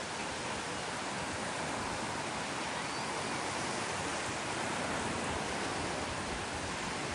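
Sea waves breaking on a beach: a continuous rushing wash of surf that swells slightly midway and eases again.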